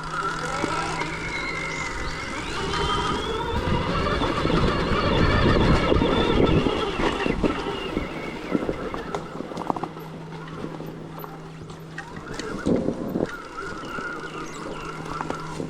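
Stark Varg EX electric dirt bike ridden off-road: its electric motor whine rises in pitch early on, over the noise of tyres and suspension working across rough ground, loudest around the middle, with scattered knocks.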